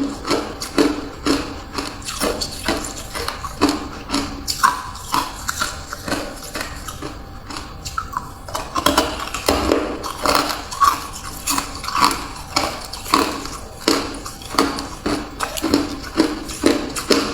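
Ice being bitten and chewed, a run of sharp crunches about two a second, sparser for a couple of seconds around the middle.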